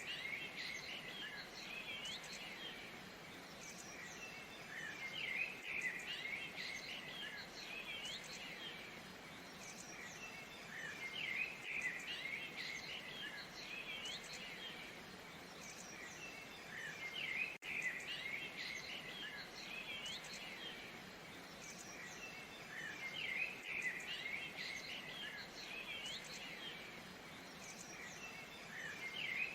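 Many small birds chirping and twittering in a dense chorus, over a steady faint rush of falling water from a waterfall. The sound drops out very briefly about 18 seconds in.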